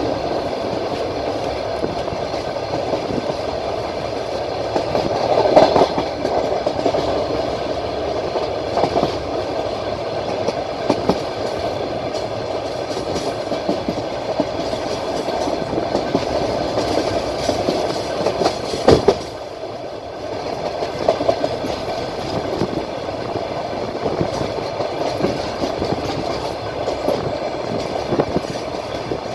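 Wheels of a passenger train rolling and clacking over rail joints, heard from inside the carriage by the window: a steady rumble with scattered sharp knocks. It swells louder about six seconds in and again just before twenty seconds, then drops a little quieter.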